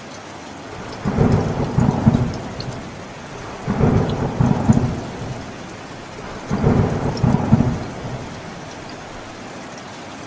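Steady rain with three rumbles of thunder, each lasting about a second and a half, coming at nearly even intervals through the middle of the stretch. The rain runs on alone near the end.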